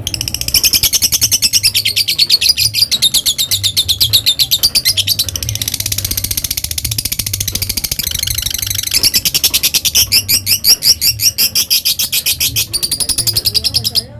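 Lovebird giving a long ngekek: an unbroken, very fast chattering trill of high repeated notes that runs about fourteen seconds, shifting its pattern a little past the middle, then stopping abruptly.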